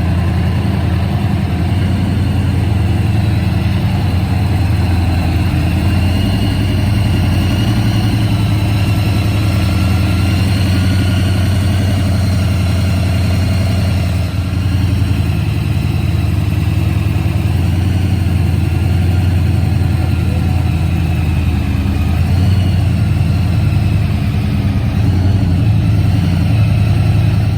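An engine running steadily at an even speed, with a deep, constant hum. There is a slight dip about halfway through.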